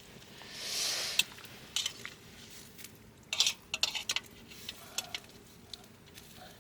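Utensils clicking and clinking against a pot and bowl as oden is served out. There is a soft swell of noise about a second in and a quick cluster of clicks past the middle.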